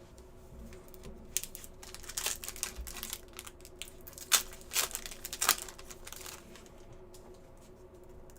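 Trading card pack wrapper crinkling and tearing as it is opened, with cards handled; a run of crackles and a few sharp snaps between about one and six and a half seconds in.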